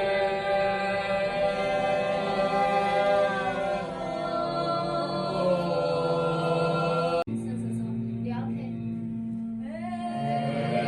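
Unaccompanied voices singing long, held chant-like tones for sound therapy. The sound breaks off abruptly about seven seconds in, then a low steady drone carries on and a voice slides upward in pitch near the end.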